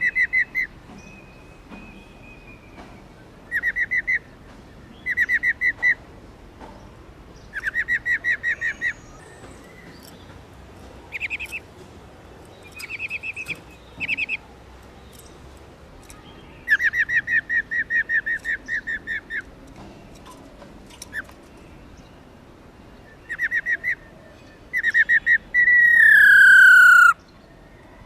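Female black-throated laughingthrush giving its 'ro ro' rattling call: repeated bursts of rapid pulsed notes, each from about half a second to a couple of seconds long. Near the end it gives a louder, longer call that slides down in pitch.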